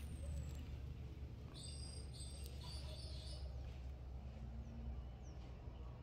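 Faint outdoor ambience: a steady low rumble with a few short, high bird chirps, a cluster of them about two seconds in and a few quick falling ones near the end.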